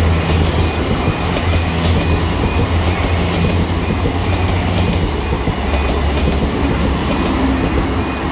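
A train passing over a level crossing, a steady low engine drone under loud wheel and rail noise. The crossing's alternating alarm tones sound faintly behind it.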